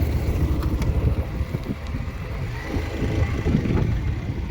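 Motorcycle ridden slowly down a steep, winding hill road, its engine running low under wind buffeting the microphone.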